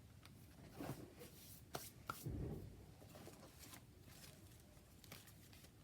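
Faint, scattered rustles and small taps of paper and craft materials being handled on a desk.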